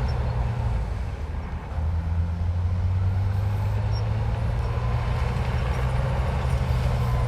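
Heavy diesel engine of earthmoving machinery running steadily. It eases off about a second in and picks up again just before two seconds.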